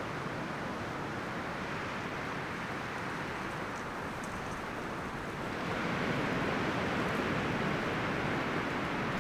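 Wind rustling through the leaves and branches of a forest, a steady rushing that swells into a stronger gust about five and a half seconds in.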